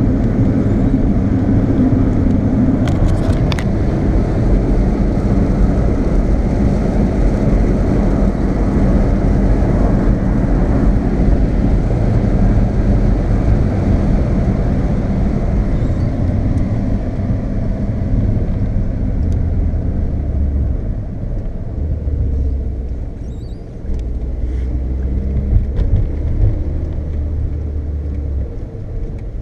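Volkswagen Golf heard from inside the cabin while driving: steady engine and road noise. The engine note drops lower in the second half, with a few short dips, as the car eases off.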